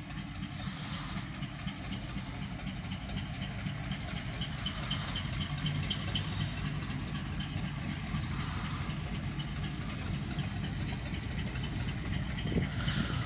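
Freight train with a diesel locomotive rolling past, heard from inside a car: a steady low rumble that slowly grows louder.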